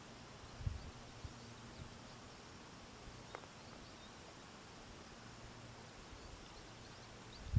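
Faint outdoor ambience with a few short, high chirps and a low steady hum. There are a couple of soft low thumps about a second in and a louder thump at the end.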